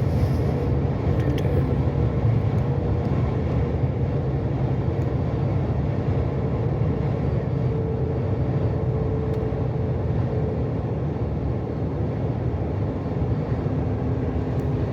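Steady low drone of a truck's engine and road noise, heard inside the cab while driving.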